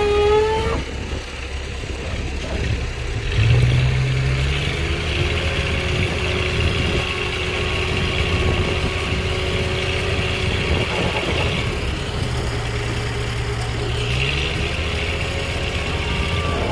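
Heavy construction machine's engine running at work, revving up a couple of times and settling back.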